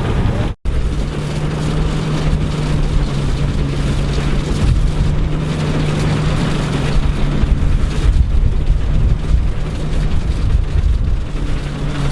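Engine of vintage farm machinery running steadily with a constant low hum, after a brief dropout in the sound just after the start.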